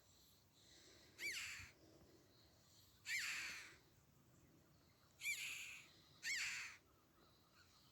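A bird giving harsh, crow-like calls four times, each call short and arching up then down in pitch, the last two close together.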